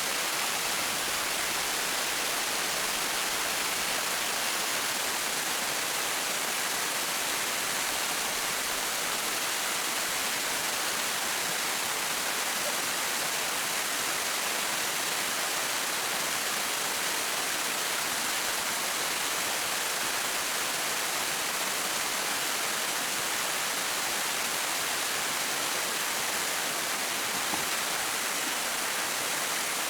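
Steady rushing water: an even hiss, strongest in the upper range, with no separate drops, splashes or knocks.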